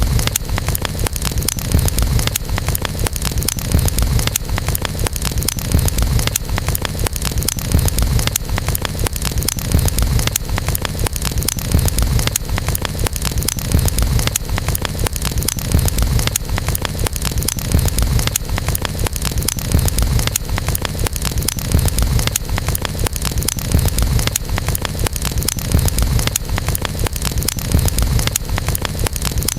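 Wood campfire burning: many small crackles and pops over a steady low rumble and hiss.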